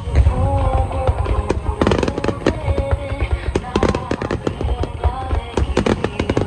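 Aerial fireworks bursting, a deep low rumble with clusters of sharp crackles, over music with a melody.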